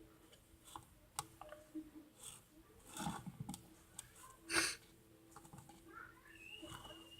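Glitter-glue slime mixture being stirred and worked in a bowl: faint, scattered sticky clicks and smacks at irregular intervals. The mix is still too wet and sticky and has not pulled together.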